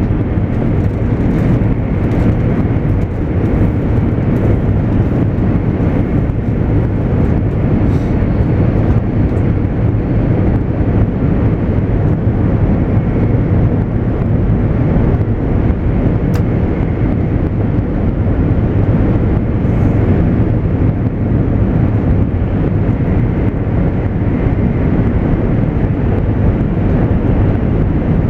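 JR East 200 series Shinkansen running at speed, heard inside the passenger cabin: a steady low rumble of wheels on rail and air noise, with faint steady tones above it.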